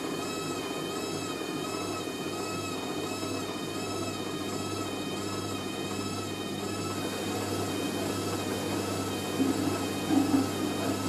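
Hoover A3060 Electronic 1100 washing machine spinning in its final spin, its motor whining steadily with a pitch that wobbles slightly up and down in a regular rhythm as the drum turns a heavy, water-laden sofa throw.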